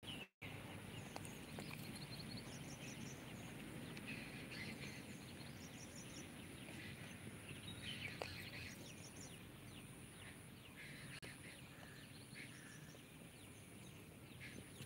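Faint outdoor pasture ambience: small birds chirping in short, quick trills that recur every few seconds over a low steady background noise, with a brief dropout right at the start.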